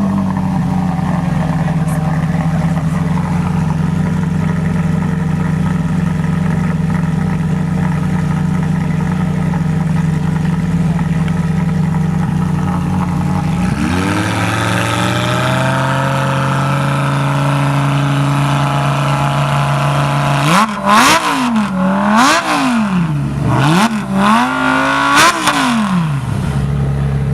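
A high-performance sports car engine idling steadily. About 14 seconds in, the idle rises and holds higher. From about 20 seconds it is blipped through several quick revs, each rising and falling sharply, before dropping back to idle.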